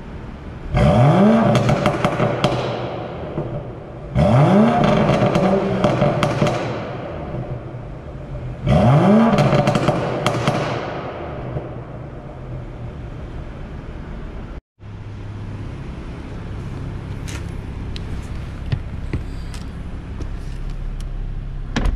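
BMW 640i's N55 turbocharged straight-six, with a catless downpipe and stock mufflers, revved three times: each rev rises sharply in pitch and falls back with a crackling of pops as it drops. Later it idles steadily with a few light clicks.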